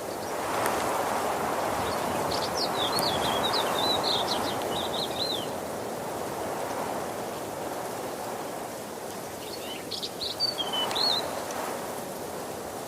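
Waterfall's steady rush of falling water, swelling a little louder in the first few seconds. A small songbird sings over it twice: a warbling phrase a few seconds in and a short one near the end.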